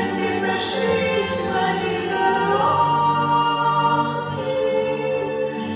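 Two female voices singing a pop ballad duet over a backing track, with a long held note about halfway through.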